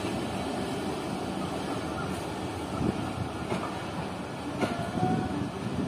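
Pakistan Railways passenger coaches rolling slowly past along the track, wheels clicking over rail joints, with a few sharp knocks about two, three and a half and four and a half seconds in.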